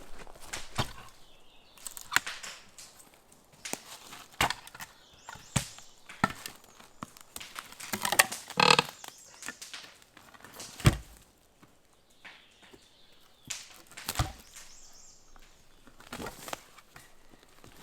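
Irregular knocks and cracks of wood being struck and handled, a dozen or so spread out, with a quick run of them about halfway through.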